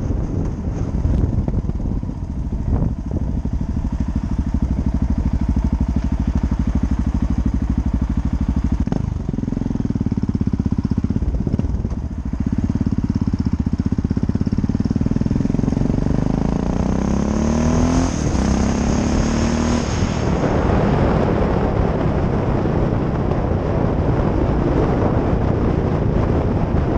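Yamaha XT660X single-cylinder four-stroke engine, fitted with a modified original exhaust, running at low revs while riding. Past the middle it revs up twice, with a short break for a gear change between. Wind rushes over the helmet-mounted microphone as speed builds near the end.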